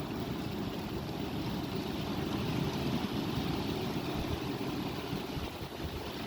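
Strong wind blowing and buffeting the microphone as a steady, rushing rumble.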